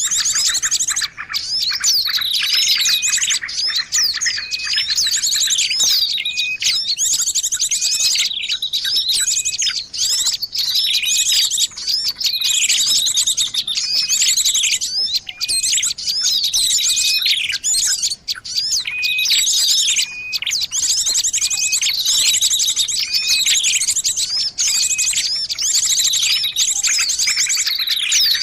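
Small-bird lure recording for bird trapping: dense, high-pitched chirping with bursts of rapid trills that repeat over and over at short, regular intervals.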